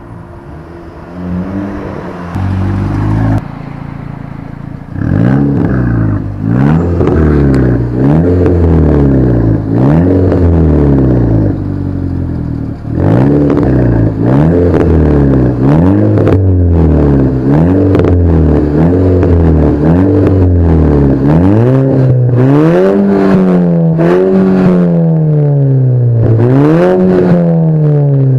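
Skoda Octavia vRS 2.0 TFSI turbo four-cylinder with a decat downpipe and free-flowing custom exhaust, revved over and over. The pitch climbs and falls roughly every one to two seconds, with short sharp cracks near the tops of the revs. It is quieter for the first few seconds, then loud.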